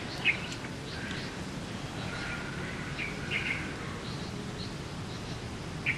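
Outdoor ambience with short bird chirps, a few times: the loudest about a third of a second in and again just before the end. They sit over a steady low background hiss.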